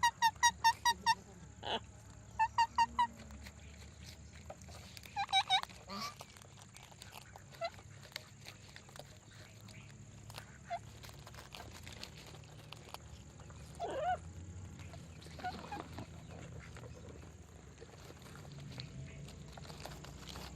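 Parrots calling: a fast run of evenly repeated pitched squawks, about five a second, in the first second, then a shorter run of four. After that come scattered single calls and chirps.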